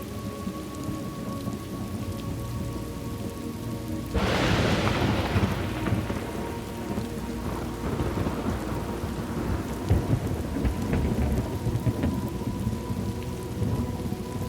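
Thunderstorm ambience: steady rain with a low rumble, and a sudden crack of thunder about four seconds in that rolls away over several seconds.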